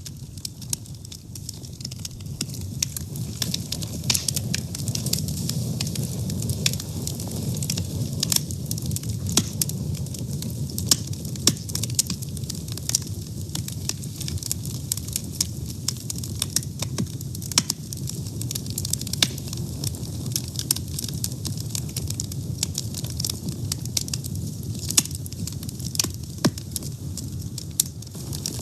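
A fire burning, with frequent sharp crackles and pops over a steady low rumble of flames.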